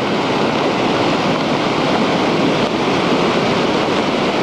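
The Ventura River in full flood, running at about 30,000 cubic feet per second and nearly topping its levee, making a loud, steady rush of fast water.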